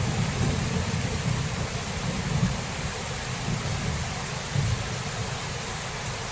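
Steady rain hissing, with low thunder rumbling underneath that fades over the first few seconds.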